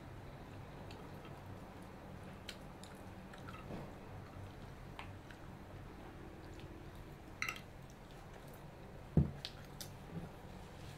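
Two people eating fried skewered snacks: soft chewing and biting over a low steady hum, with a few scattered clicks and taps from spoon and skewers. The loudest is a single thump about nine seconds in.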